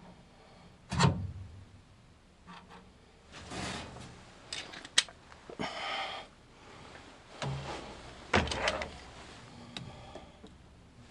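A series of knocks with a sharp click and scraping in between, as of things being handled: two loud knocks, about a second in and past the eighth second.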